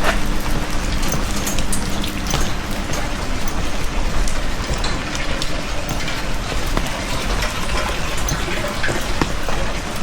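Heavy rain falling: a dense, steady hiss with many sharp drop ticks close by.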